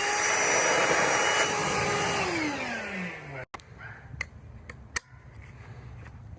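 Handheld electric power tool motor running at a steady pitch, then winding down over about a second as it is released. After an abrupt break, a few light clicks and knocks of handling tools and parts.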